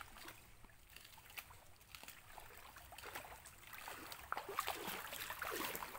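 Faint shallow-water sloshing and trickling, with scattered small clicks and knocks.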